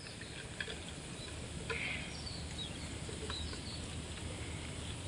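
Faint outdoor ambience with scattered short bird calls and a few light clicks.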